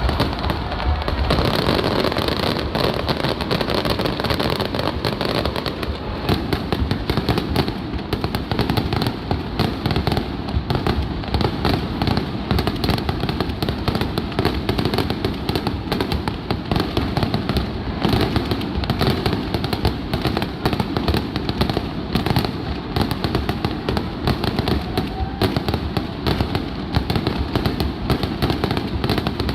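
Aerial fireworks display: many shells bursting and crackling in rapid, continuous succession, with no pause between bursts.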